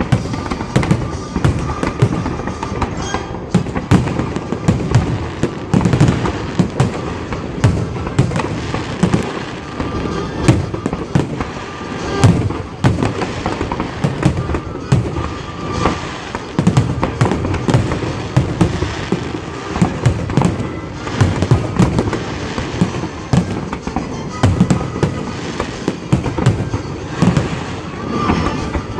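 Aerial fireworks display going off in a dense, near-continuous barrage of bangs and crackles, several bursts a second, with deep booms.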